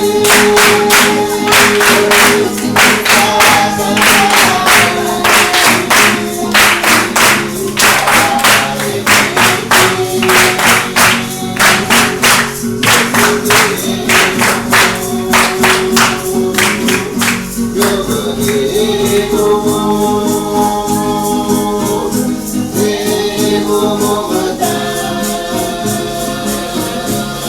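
A group of voices singing together over a steady drum beat, about two beats a second. The drumming stops about seventeen seconds in and the singing carries on.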